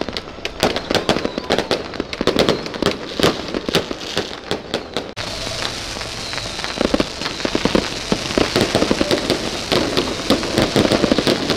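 Fireworks and firecrackers going off in a dense, irregular crackle of sharp pops. About five seconds in the sound changes abruptly, and a steady hiss runs under the pops.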